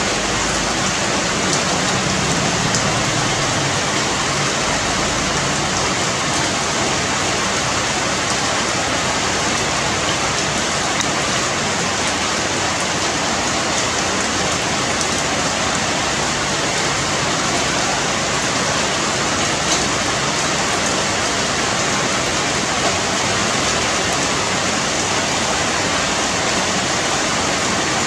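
Steady rain falling through leafy tree foliage, an even hiss with a few louder drop hits scattered through it.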